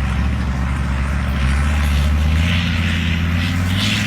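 Large truck engine running loudly under throttle, its pitch rising slightly a little past halfway through.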